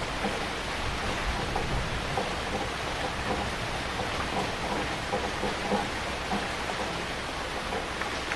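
Heavy rain falling steadily, a dense even hiss of drops with many small splashes and patters on a surface.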